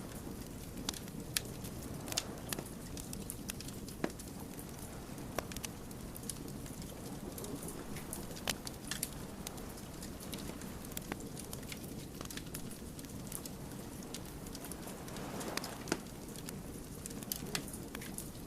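Wood campfire crackling: irregular sharp pops and snaps over a steady low rush of burning logs, with a brief swell in the rushing near the end.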